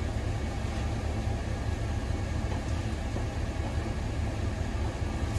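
Chevy dump truck's engine idling steadily, a low even rumble.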